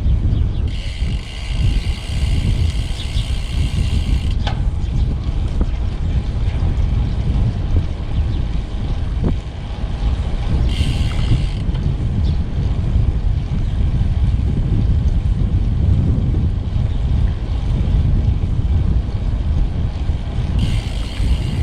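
Wind rushing over the microphone of a moving road bike, a steady low rumble throughout. A higher-pitched buzz cuts in three times: for about the first four seconds, briefly near the middle, and again at the very end.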